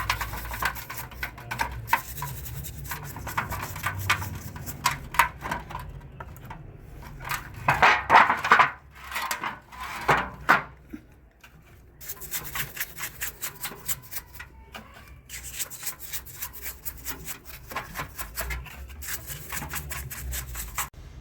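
Hand work on a car alternator taken off the car: metal parts and tools clicking, tapping and scraping, with a louder rubbing stretch about eight to ten seconds in.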